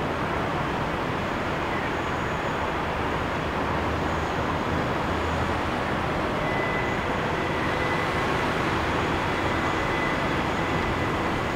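Distant passenger train rolling slowly through a rail yard under a steady wash of city traffic noise. A faint, thin, high squeal comes in about six and a half seconds in.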